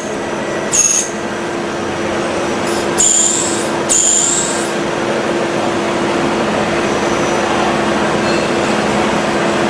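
Milling machine running steadily with a constant motor hum, the cutter giving short high-pitched squeals about a second in and twice more around three and four seconds in.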